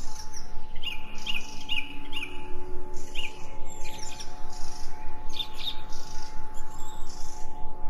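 Songbirds chirping in short, quick runs of repeated notes, over a steady humming drone.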